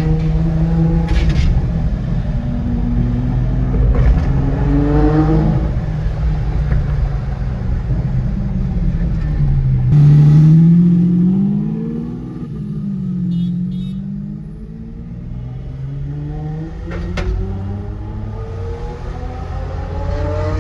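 Lamborghini Aventador SV Roadster's V12 engine through a Balboni exhaust, revving up and down in several rising and falling sweeps, loudest about ten seconds in.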